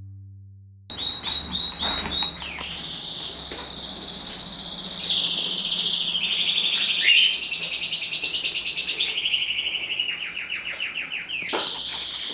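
A songbird singing a continuous string of rapid trills, each held at one pitch for a second or two before switching to a higher or lower one.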